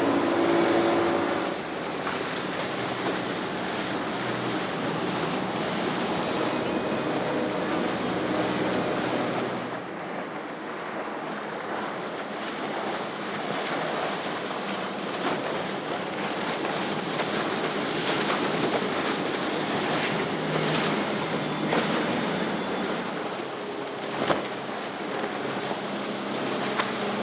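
Motorboat engines droning as boats run past through the inlet, strongest in the first ten seconds and then fading into the wash of waves and wind on the microphone.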